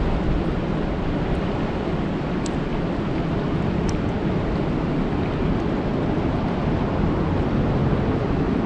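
Steady rain falling on a lake: a dense, even hiss, with a few faint sharp ticks of single drops.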